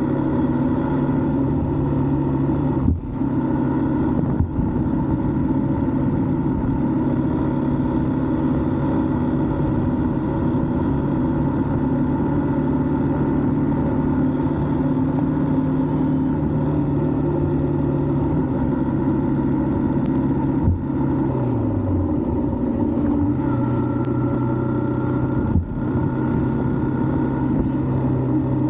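Yamaha R15 single-cylinder motorcycle engine running at a steady cruise under the rider, its pitch dropping briefly about 21 seconds in and then climbing back.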